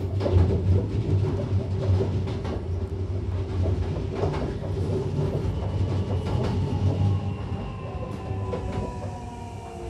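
Hankyu electric train heard from inside the car: a steady low rumble with a few sharp clacks over rail joints. From about six seconds in, the traction motors' whine falls slowly in pitch as the train slows for the station.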